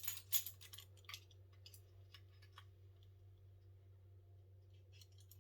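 A few light clicks and ticks from the ring-pull tab of an aluminium drinks can being worked, with no hiss of the can opening. The tab fails to open the can. A faint steady low hum runs underneath.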